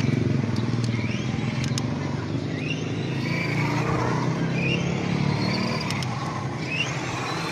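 Radio-controlled cars, a Yokomo stadium truck and a Tamiya Dual Ridge 4wd buggy, driving hard, with a steady running and tyre noise and a high motor whine that rises in pitch several times as they accelerate.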